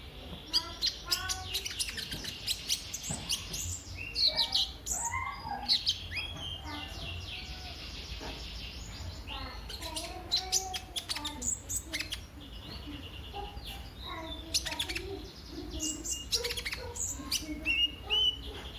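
Sunbird, the 'kolibri ninja' of Indonesian bird keepers, singing a fast, varied, continuous song of sharp chirps, trills and short whistles, over a low steady hum.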